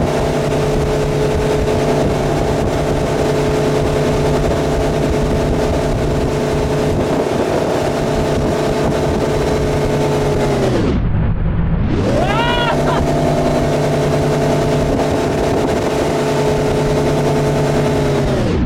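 Centurion Fi25 wake boat's inboard engine running steadily at towing speed, then throttled off about ten seconds in so its pitch drops sharply, revved back up a second later and held steady, and throttled off again near the end.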